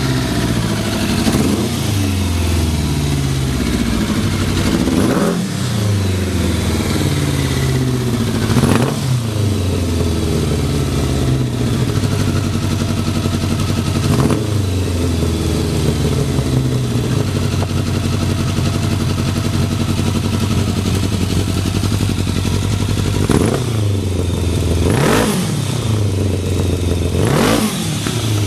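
Kawasaki GPZ1100's inline-four engine idling steadily, revved briefly about seven times with the throttle, each time falling cleanly back to idle. The seller presents it as a stable idle with no abnormal noises.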